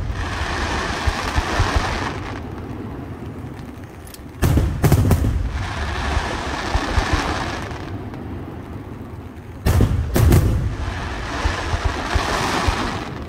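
Aerial firework shells bursting with loud booms, in two clusters about five seconds apart. Each cluster is followed by a couple of seconds of crackling from the glittering stars.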